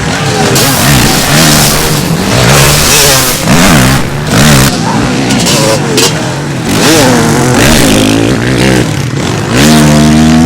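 Motocross motorcycle engines revving hard and easing off again and again, the pitch repeatedly rising and falling, with the loudest rising rev near the end.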